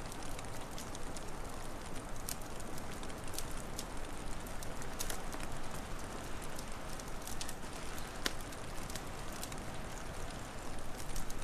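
Wood fire crackling, with scattered sharp pops and snaps over a steady hiss.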